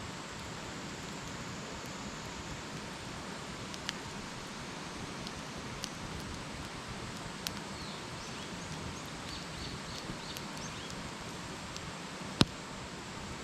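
Wood campfire burning: a steady hiss with scattered sharp crackles and pops, the loudest a single sharp pop near the end.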